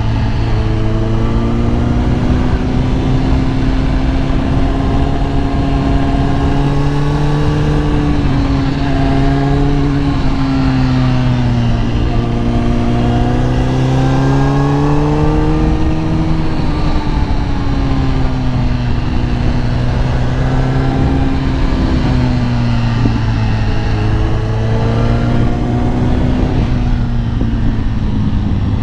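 Kawasaki ZX-10R's inline-four engine running at moderate revs while riding. Its pitch rises and falls gently several times as the throttle is eased on and off. A steady rush of noise runs underneath.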